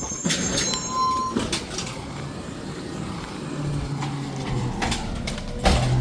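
Garbage truck running on its collection route, its engine droning low, with repeated knocks and clanks and a louder clatter near the end.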